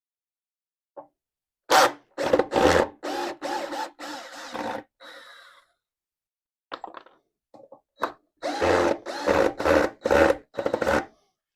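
Power drill run in short trigger bursts into wood: about half a dozen bursts, a few seconds' pause, then another half dozen.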